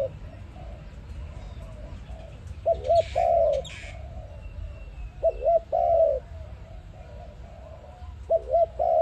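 A dove cooing in a repeated phrase, two short clipped notes and then a longer drawn-out coo, three times, about every two and a half to three seconds. Fainter coos sound between the phrases. A short hiss comes with the first phrase.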